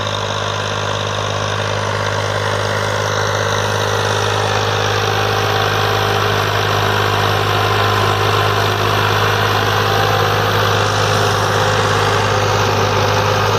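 Tractor diesel engine running steadily with a deep even drone, no change in speed.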